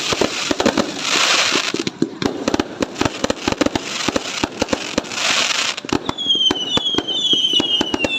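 Fireworks going off in a rapid string of bangs and crackles, with two hissing swells of launching or burning shells. From about six seconds in, several short falling whistles repeat one after another over the bangs.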